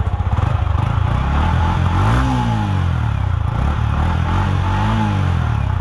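Yamaha R15M's 155 cc single-cylinder four-stroke engine idling, blipped twice with the throttle: the revs rise and fall about two seconds in and again near the end.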